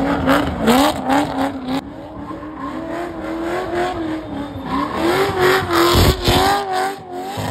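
Chevrolet C6 Corvette's V8 held at high revs while it spins its rear tyres in donuts, the engine note wavering up and down as the throttle is worked, with tyre squeal underneath.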